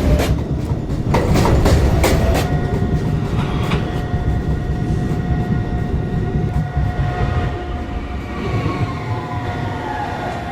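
New York City subway car running on the track, its wheels clicking over rail joints for the first few seconds. Then a steady motor whine takes over and falls in pitch near the end as the train slows down.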